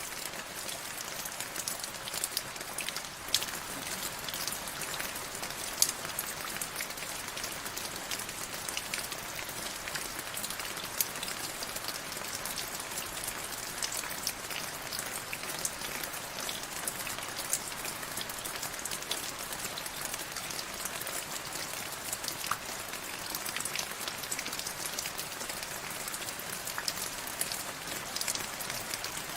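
Steady rain with many separate drops ticking sharply on a hard surface among the even hiss of the downpour.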